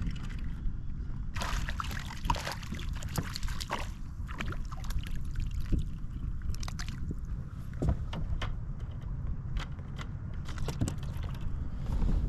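Clicks, rustles and small water sloshes of handling in a kayak, thickest in the first few seconds and then scattered, over a steady low rumble.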